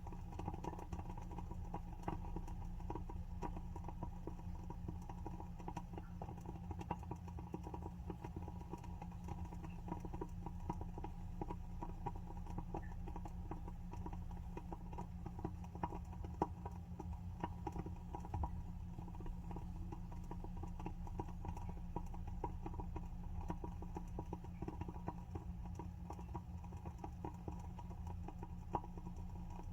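Wooden candle wick burning with a soft, irregular crackle of small pops, over a steady low hum.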